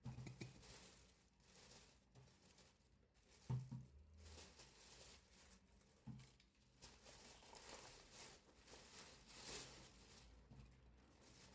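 Faint rustling and handling noises with a few soft knocks, the loudest about three and a half seconds in.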